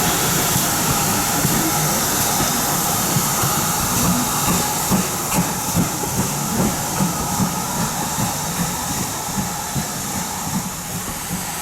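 Steam locomotive hissing steam, with a run of soft regular beats about two to three a second through the middle that fade near the end.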